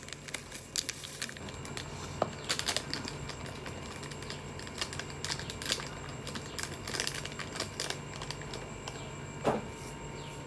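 Plastic soup-base sachet of a cup noodle being handled, torn open and emptied into the cup: irregular crinkles and small clicks.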